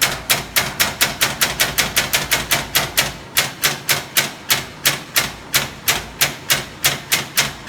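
A steady, even series of sharp knocks, about four a second.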